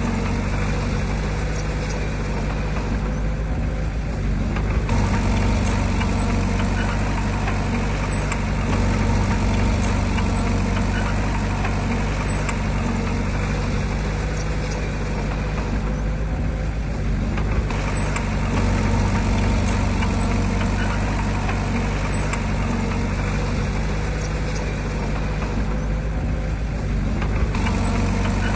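Diesel engine of heavy earthmoving equipment (bulldozer or dump truck) running steadily, growing louder for a few seconds twice as it works.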